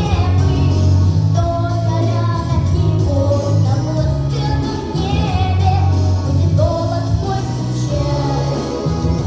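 A young girl singing a melodic song over instrumental accompaniment with a steady bass line.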